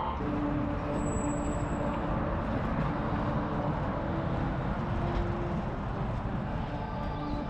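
Honda CBR600RR motorcycle's inline-four engine running steadily under a dense rumble of wind and road noise.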